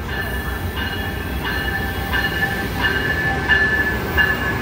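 Amtrak passenger train rolling slowly into a station, a short metallic squeal repeating about every 0.7 seconds over a low rumble.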